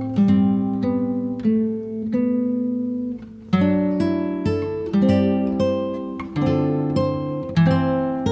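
Background music: an acoustic guitar strumming chords, each chord ringing and fading. There is a short pause about three seconds in, after which the strums come louder and more often.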